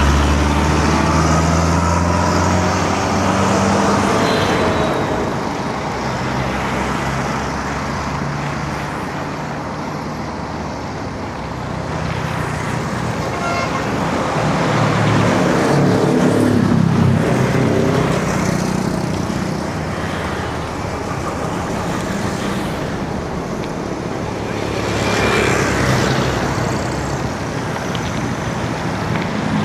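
Road traffic passing close by: motor vehicle engines hum and swell as they go past, at the start, around the middle and again later, over a continuous rush of road noise.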